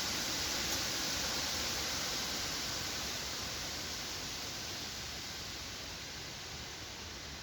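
Wind blowing through forest trees: a steady rushing hiss of stirring foliage, strongest in the first second or two, then slowly easing off.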